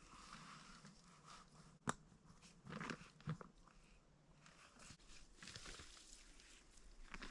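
Near silence, with one sharp click about two seconds in and faint brief rustling a second later.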